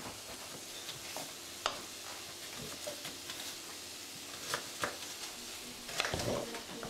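Chicken and onion frying in an oiled pan: a steady sizzle, with a few sharp clicks of the stirring utensil against the pan.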